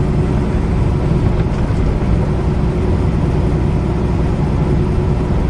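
Semi truck travelling down the road: a steady low rumble of diesel engine and road noise.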